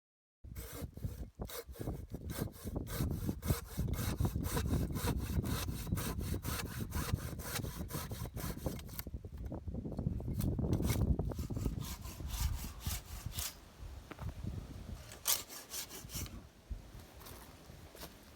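Hand saw cutting through a section of dry pine with quick, steady back-and-forth strokes. The strokes start just after the beginning and thin out to a few scattered ones in the last few seconds.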